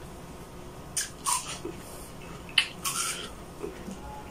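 Close-miked chewing of a mouthful of food: a few short, wet crunching and smacking sounds, the sharpest about two and a half seconds in.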